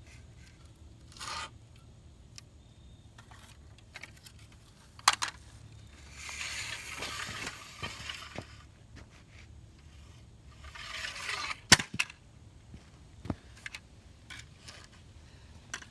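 Two stretches of scraping, each a second or two long, with scattered sharp plastic knocks; the loudest knocks come just after the second scrape. It is a heavily loaded RC truck ramming and scraping against a model Ferrari car.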